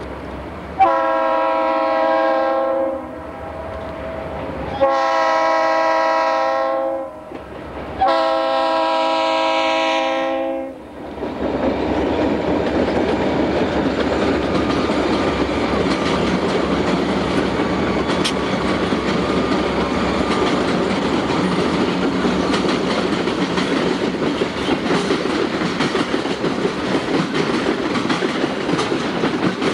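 Diesel-hauled freight train sounding three long blasts on a multi-chime air horn. The train then passes with a steady rumble and clatter of wheels over the rail joints, and a brief high squeal partway through.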